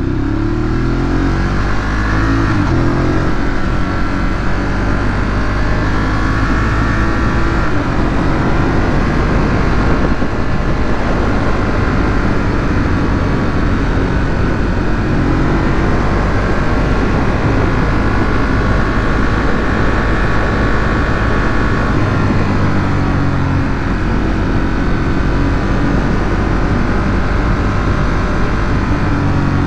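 Ducati Monster 821's 821 cc L-twin engine through its stock exhaust, on the move with steady wind and road noise. The revs climb right at the start, hold through a long steady stretch, and climb again in the last several seconds.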